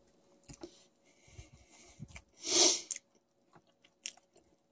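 A person eating oatmeal with almonds from a plastic tub: a plastic spoon clicking against the tub and quiet chewing, with a crunch from the almonds. About two and a half seconds in comes one louder, noisier burst.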